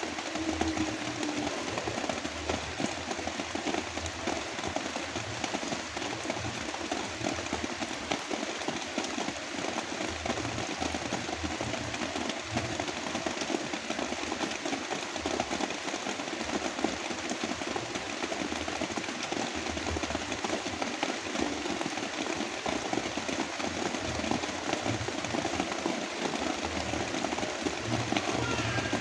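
Heavy rain falling steadily, layered with brown noise.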